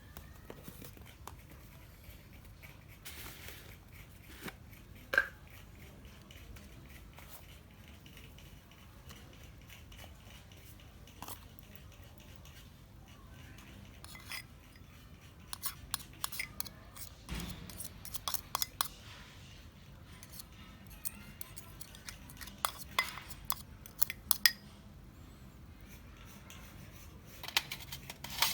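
Scattered light clicks and clinks of hand tools and small metal parts being handled during work on a cordless impact wrench. They come singly at first, then in quick clusters past the middle and again near the end.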